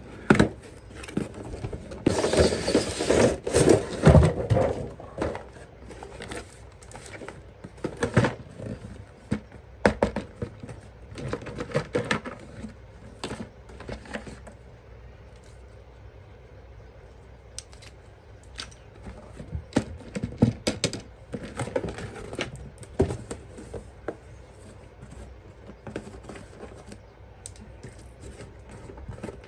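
Hands handling toy packaging and parts: plastic and cardboard rustling, with scattered clicks and taps. The densest rustling comes a couple of seconds in.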